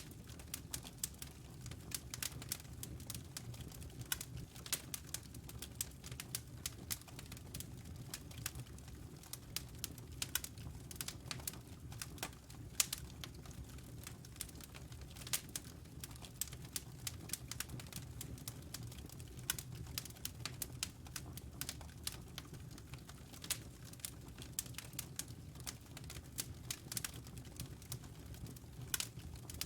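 Wood fire in a fireplace crackling, with many sharp pops and snaps, several a second, over a low steady rumble.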